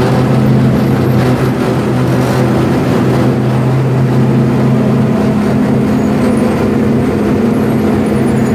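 Open-air race-car limo's engine running steadily as it rolls at low speed, a steady low hum over road noise, easing off near the end as it slows.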